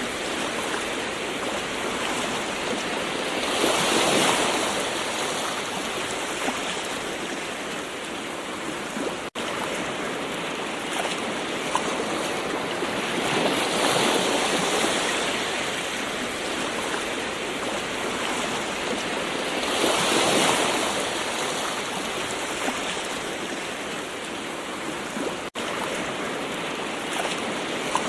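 Gentle ocean waves washing ashore: a steady hiss of surf that swells louder with a bigger wave three times, about every six to ten seconds. The sound cuts out for an instant twice.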